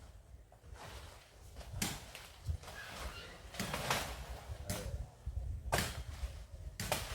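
Sharp chopping blows of a blade into a breadfruit tree limb, about six irregular strokes roughly a second apart, over a low rumble.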